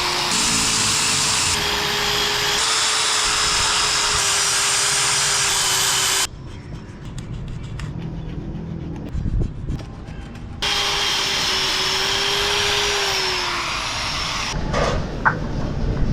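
Handheld electric power tool running with a steady whine, in short clips joined by abrupt cuts, with a quieter stretch of light clicks in the middle. The whine falls as the tool winds down, followed by a few sharp taps near the end.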